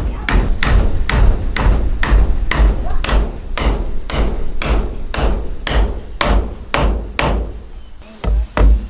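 Steady hammering on wood, about two to three blows a second, each blow ringing briefly. The blows thin out near the end, pause for a moment, then resume with a few quick strikes.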